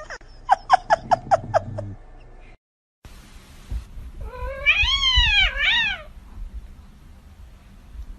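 A quick run of about seven short high chirps, then, after a brief cut, a domestic cat's long wavering meow that rises and falls, followed by a shorter meow.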